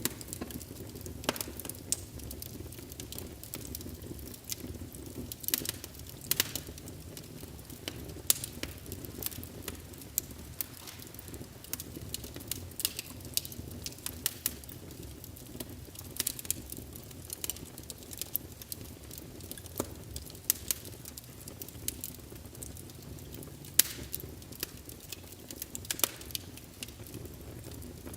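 Logs burning in a fireplace, crackling with irregular sharp pops, a few each second, over a steady low rumble of the flames.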